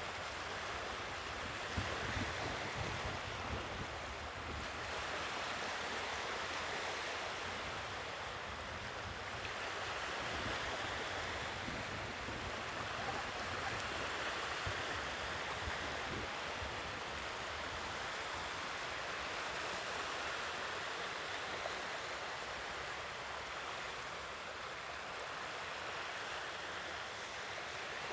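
Sea waves washing ashore, a steady hiss that swells and eases slowly every few seconds.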